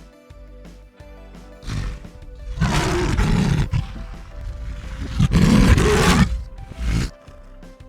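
Loud, deep animal calls, three long ones and a short one, over soft background music.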